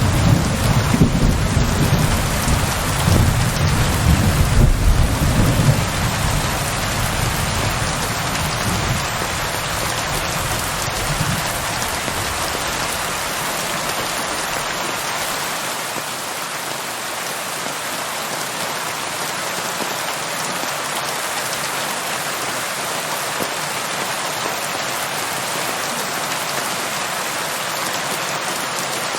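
Steady rain falling in an even hiss, with a low rumble of thunder rolling through the first several seconds and dying away, leaving the rain alone.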